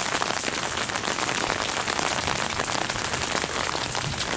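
Steady rain during a thunderstorm: an even hiss of rainfall with a dense patter of drops landing close to the microphone.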